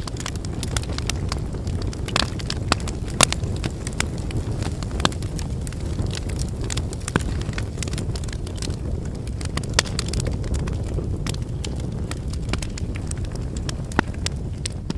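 Wood campfire burning: a steady low rumble of flames with frequent irregular crackles and pops from the firewood, a few of them sharper and louder.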